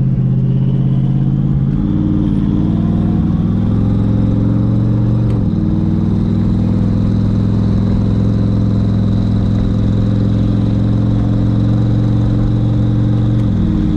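Twin-turbo Mustang Cobra V8 running steadily at part throttle while driving. The engine note steps in pitch twice, about two and five seconds in, then holds even.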